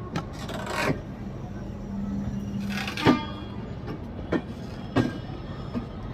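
Train wheels clattering over track points as the train switches track. Sharp, irregular knocks come over a steady running rumble and hum.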